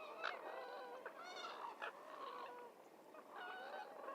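Heron chicks calling: a fairly faint run of short, overlapping calls from several birds.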